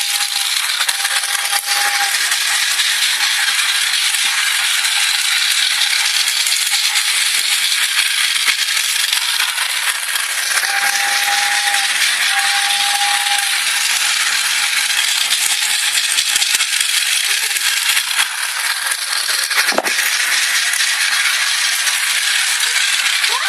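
A train's continuous rattling and clicking, with two pairs of short, steady whistle-like tones: one pair at the start and another about halfway through.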